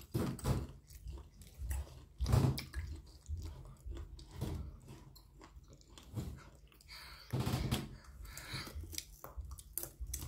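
Close-up chewing and biting while eating noodles and chicken: irregular clicks and short noisy strokes, with louder bites about two seconds in and again about seven seconds in.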